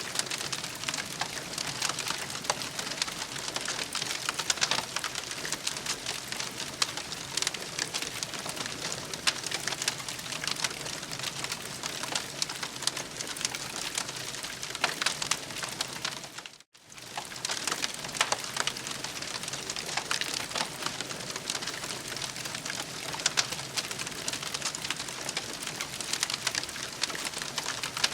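Campfire crackling and popping, a dense steady run of small snaps, with a momentary drop-out about two-thirds of the way through.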